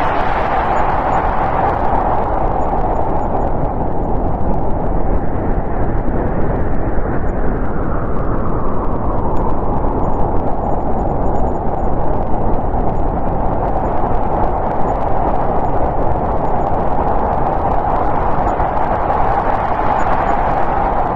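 Snowstorm wind blowing steadily, swelling and easing in slow gusts.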